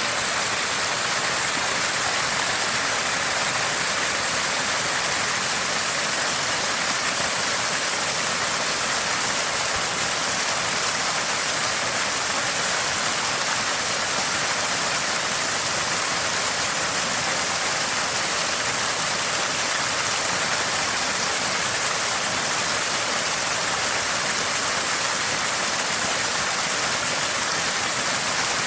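Water from a small spring gushing and gurgling steadily, an even, unbroken splashing without pauses.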